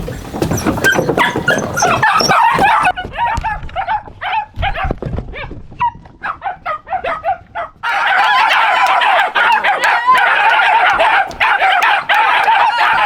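A dog barking and yipping in quick runs of barks, turning into a dense stretch of excited calls from about eight seconds in.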